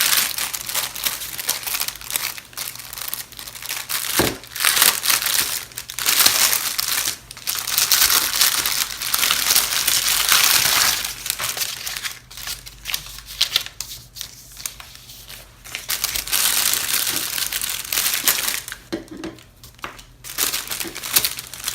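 Crinkly packaging being unwrapped and handled, an irregular run of rustling and crackling.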